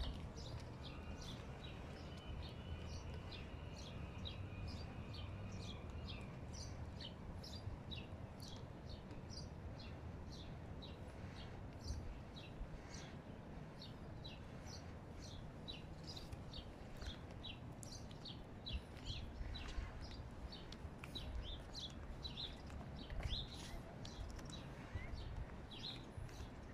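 Small birds chirping rapidly, many short high chirps one after another, over a steady low rumble.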